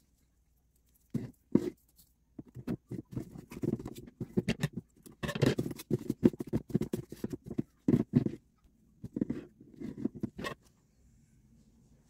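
Sellotape and a cardboard lid being worked onto a plastic bucket: irregular scraping, rustling and knocks, busiest around the middle.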